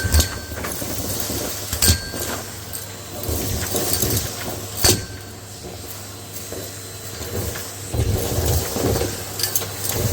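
Numatic Hetty canister vacuum cleaner running steadily, with three sharp clicks from the nozzle knocking or grit rattling through the wand, about two and three seconds apart.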